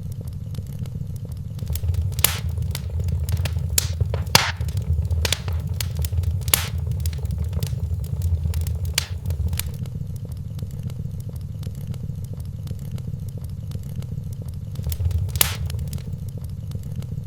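Wood fire crackling in a fireplace: a steady low rumble of burning with scattered sharp pops and snaps, busiest in the first half and again near the end.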